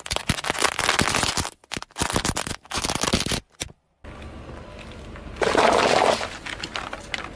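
Objects cracking and crunching as they are crushed under a car's tyres: dense crackling in short bursts broken by brief silent gaps, then, after a pause, about a second of louder rushing noise.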